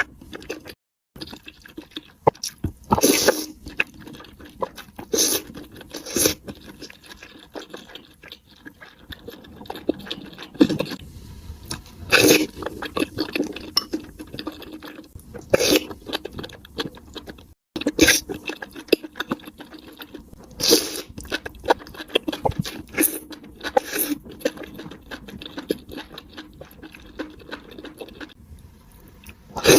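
Close-miked eating sounds: crunchy bites and chewing in irregular bursts, with wetter mouth sounds between them, twice cut off for a moment.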